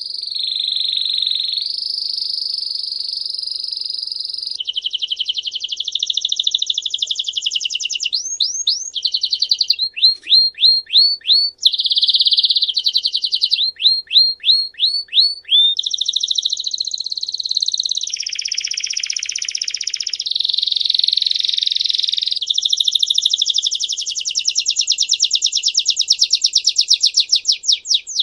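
A songbird singing a long, unbroken song of fast trills, with runs of quick repeated downswept notes about a third of the way in and a rapid, even trill near the end.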